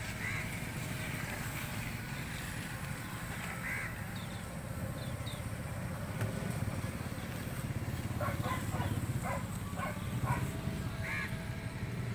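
Birds calling outdoors, with a few harsh caws and some short high chirps, over a steady low rumble; a quick run of calls comes about two-thirds of the way through.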